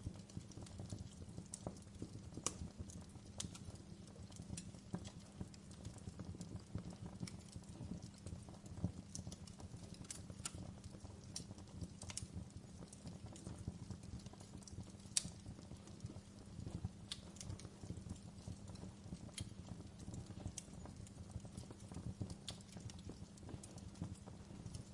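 Wood fire burning in a fireplace: a steady low rumble with dense soft crackling and sharper pops every second or so.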